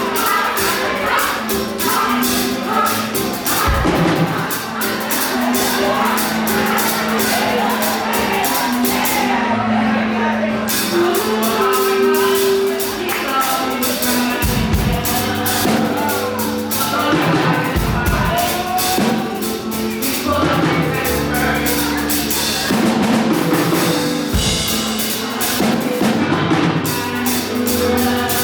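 Live fast gospel praise-break music: a band plays a quick, driving drum beat with bass and keyboard, and voices sing over it.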